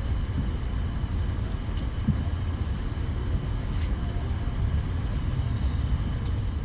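Steady low rumble of an Airbus A350-900's cabin while the aircraft waits before pushback, with a few faint clicks.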